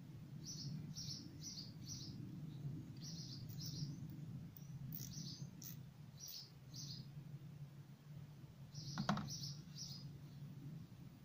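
Small songbird chirping, short high chirps coming in quick runs of three or four, over a low steady hum. A single sharp knock about nine seconds in.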